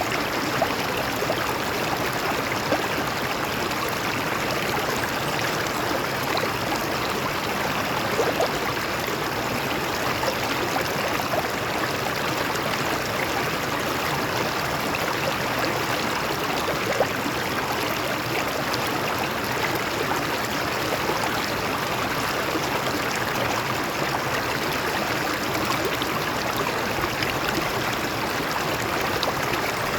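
Stream water flowing and gurgling over rocks, a steady, even rush with small splashes.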